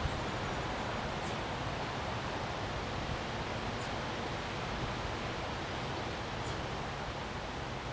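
Windstorm wind blowing steadily, an even rushing hiss with a few faint, short high ticks.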